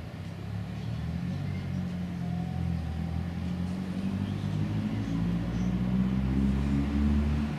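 A car engine accelerating: a low rumble that builds over several seconds with its pitch rising, then falls away sharply near the end.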